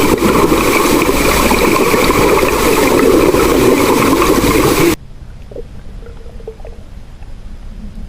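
Boat motor running over loud rushing, churning water, with steady engine tones in the noise. About five seconds in it cuts off abruptly to much quieter sound.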